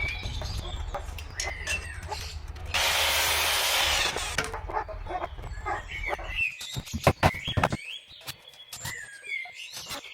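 A power tool runs in one short burst of about two seconds, then come a run of sharp clicks and knocks from tools and wood being handled.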